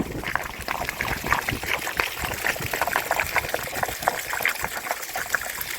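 Rinse water pouring and splashing out of a motorcycle gas tank in an irregular, spattering stream, carrying loose rust chunks from inside the tank.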